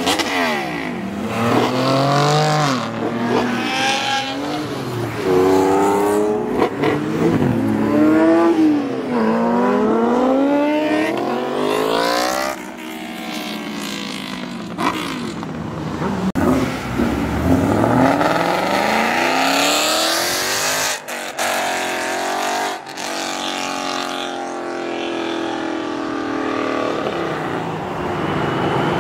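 Car engines revving and accelerating hard, the pitch climbing and dropping several times in the first half, then a steadier engine note near the end.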